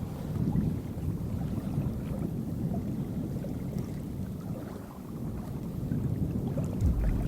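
Outdoor wind buffeting the microphone: an uneven low rumble that dips briefly partway through and swells again near the end.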